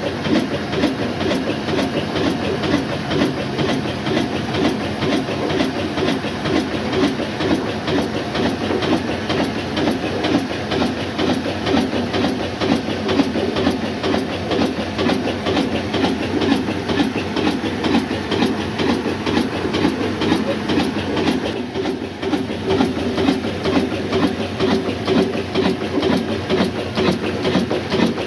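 Old black stationary diesel engine running steadily and driving a flour mill, with a fast, even mechanical clatter.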